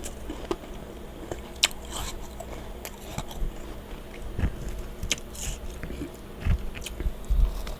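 Close-miked crunching and chewing of powdery freezer frost, with irregular sharp crunches and crackles, the strongest about a second and a half in and again around five seconds. A steady low rumble and a faint hum run underneath.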